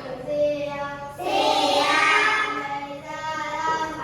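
Children singing together in long held notes, louder from about a second in.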